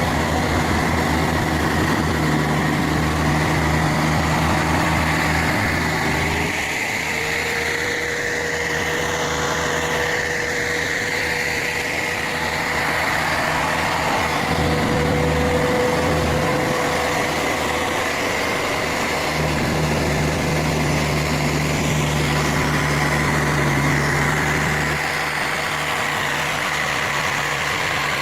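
Heavy vehicle engine running, its low note swelling and easing several times, with a steady high-pitched whine throughout and a second, lower whine in the middle.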